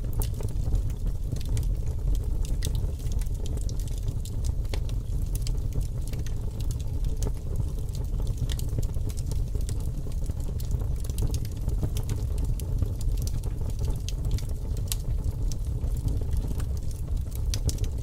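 Fire crackling: a steady low roar with frequent small pops and snaps scattered irregularly throughout.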